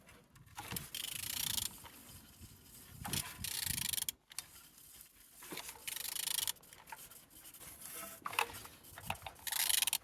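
Used engine being turned over by hand, with four short bursts of rubbing, scraping noise a couple of seconds apart.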